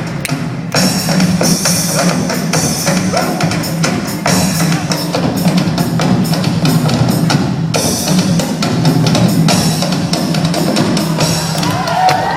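Drums played in a busy, fast rhythm, with bass drum and snare strokes coming thick and close together.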